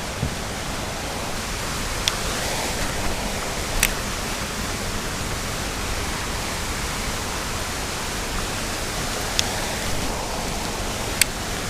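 Steady rushing noise of running water, with a few sharp ticks about two, four, nine and eleven seconds in.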